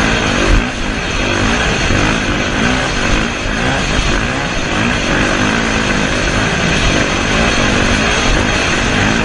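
Motocross dirt bike engines revving, their pitch rising and falling again and again over a steady rush of noise.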